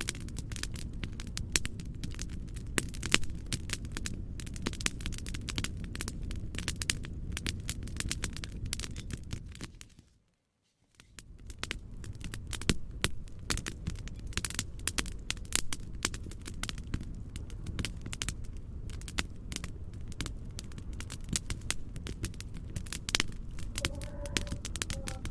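Wood fire in a fireplace crackling, with many sharp pops over a steady low rumble. The sound fades out to silence about ten seconds in, then fades back in.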